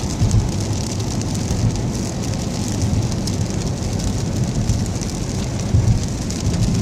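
A car driving on a wet road in steady rain. A low, steady rumble of road and tyre noise sits under a hiss of rain and spray, with a couple of small bumps.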